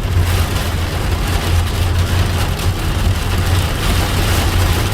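Steady low rumble of a car running through a thunderstorm, with the even hiss of heavy rain on the vehicle over it.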